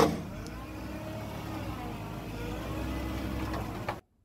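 A vehicle engine running at low revs with a steady low hum as an SUV is driven slowly down the aluminium ramps of a car-hauler trailer. The sound cuts off suddenly near the end.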